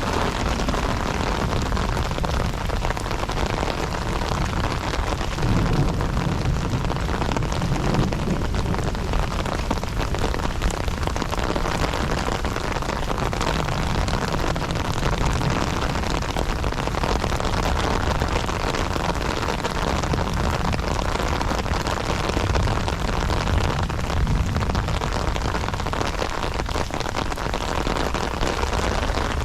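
Heavy rain falling steadily, a dense even hiss with a strong low rumble underneath.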